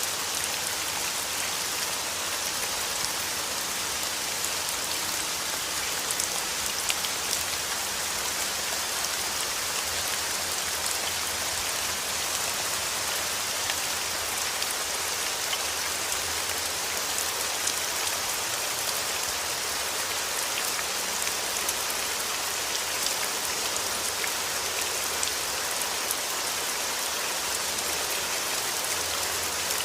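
Steady rain falling: a continuous hiss with scattered small drop ticks.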